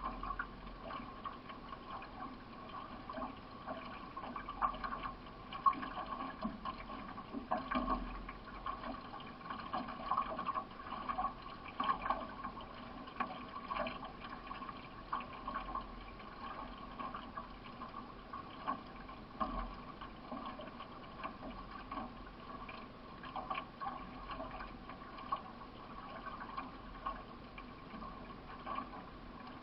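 Single-blade paddle strokes splashing and water rushing along the hull of a solo racing canoe, heard from on board as a steady wash broken by repeated short splashes.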